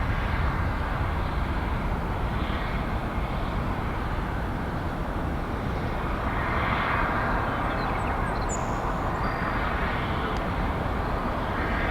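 Jet airliner engines running near the runway: a steady rumble that swells about six to eight seconds in.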